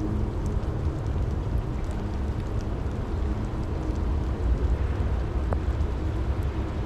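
Steady rain falling, an even hiss with faint scattered drop ticks over a constant low rumble.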